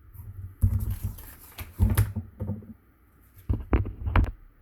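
Cardstock and craft materials being handled on a tabletop: several irregular rustles, taps and knocks, with a cluster of sharp clicks near the end.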